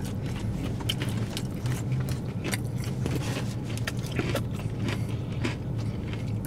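Crunchy chewing of a fried chicken sandwich with Takis: many irregular crisp crackles close to the microphone, over a steady low hum inside the car.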